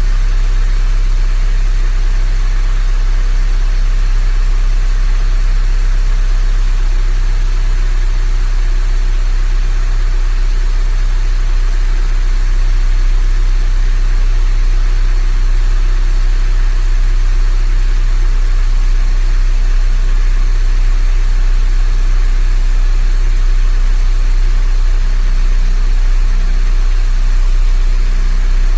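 Honda Grace GM9 engine idling steadily after a cold start, with an even low hum that holds through.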